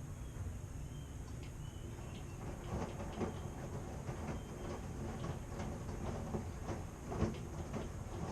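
Washing machine running: a steady low hum with irregular knocks and clunks from the turning drum, which come more often from a couple of seconds in.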